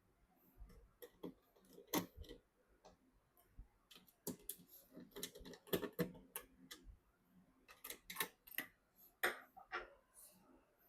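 Irregular clicks and light taps of small hardware parts being handled and fitted during a PC build, coming in clusters about two seconds in, between four and seven seconds, and again around eight to nine and a half seconds.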